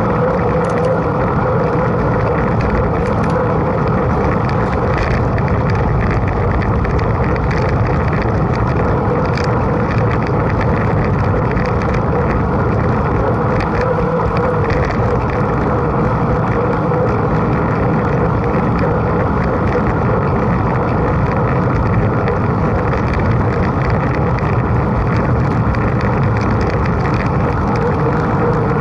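Mountain bike being ridden at speed: a steady rush of wind over the microphone mixed with tyre and drivetrain noise, with scattered small clicks and rattles.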